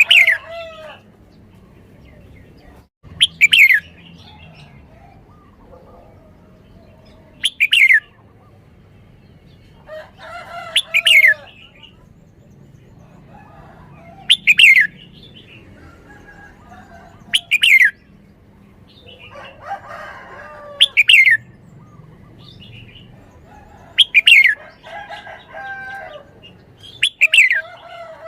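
Red-whiskered bulbul singing loud, short whistled phrases of quick falling notes, repeated about every three to four seconds, nine times in all.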